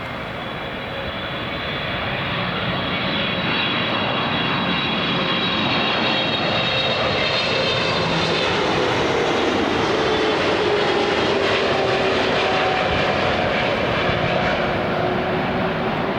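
Jet airliner's engines passing close by: a steady rush that swells over the first couple of seconds, with a high whine above it and a lower tone that falls in pitch about halfway through as the aircraft goes past.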